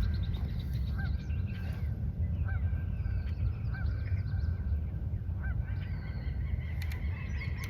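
Marsh birds calling: a short honk-like call repeated about every second and a half, with thinner chirps from other birds, over a steady low rumble.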